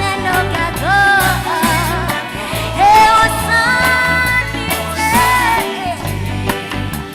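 Live gospel band music: a steady bass line and drums under a melody that slides up into long held notes.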